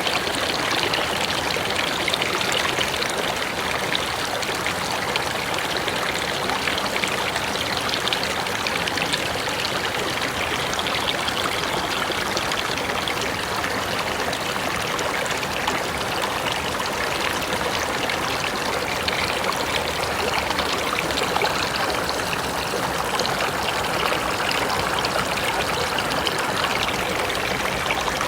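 A forest river running over rocks, a steady rushing with trickling water.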